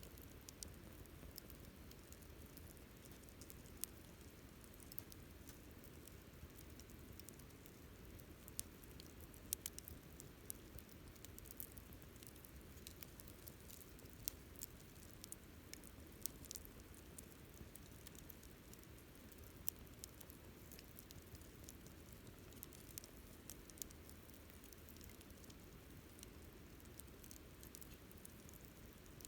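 Wood campfire crackling faintly: scattered sharp pops and snaps, a few at a time, over a steady low hiss of burning.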